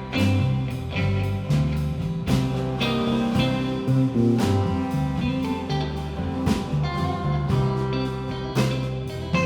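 Live band playing an instrumental passage: electric guitar over bass notes, with drums striking a steady beat.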